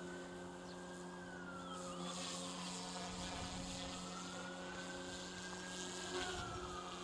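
Goosky S2 Max Legend RC helicopter hovering in idle up 1: a steady motor-and-rotor hum with a whine that rises and falls twice as the flier works the sticks.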